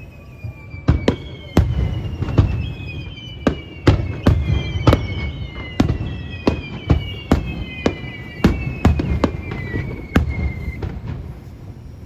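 Fireworks display: aerial shells bursting in quick succession, about one or two bangs a second, with a low rumble between them. Several long whistles glide slowly down in pitch over them.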